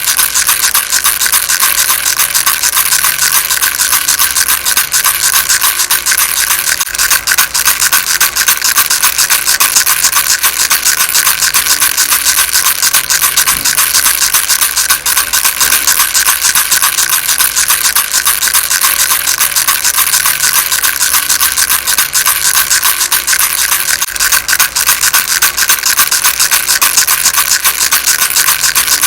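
A baby rattle shaken steadily and fast without pause: a dense, hissy rattle of many small pieces, loud and even throughout.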